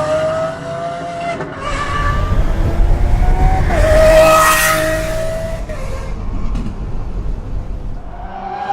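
Lamborghini engine revving hard. Its pitch climbs and peaks, loudest about four seconds in, then it settles back to a steadier, lower run.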